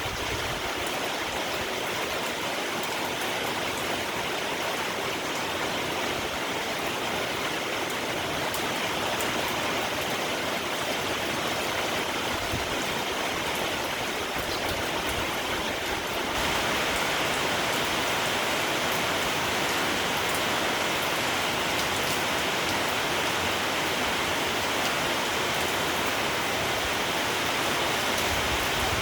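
Steady rain falling, a dense even hiss. It grows a little louder about halfway through.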